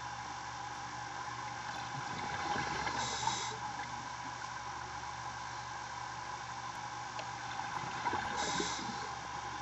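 Underwater recording of a scuba diver breathing through a regulator: a short hiss of an inhale and bubbling exhales about every five seconds, over a steady mechanical hum.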